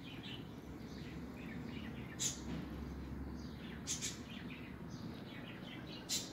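Faint birds chirping in quick short calls, with four sharp clicks, about two, four (a close pair) and six seconds in.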